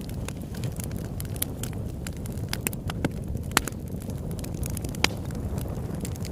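Campfire burning, crackling with frequent irregular snaps and pops, a few sharper than the rest, over a steady low rumble.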